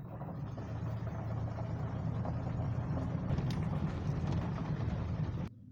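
Vehicle driving along: a steady low engine and road rumble under a hiss of road noise, cutting off abruptly near the end.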